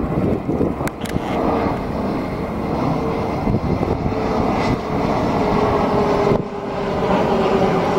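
Jet airliner on arrival, its engines making a loud, steady rushing noise with a faint whine that slides a little lower in pitch. The sound dips briefly about six and a half seconds in.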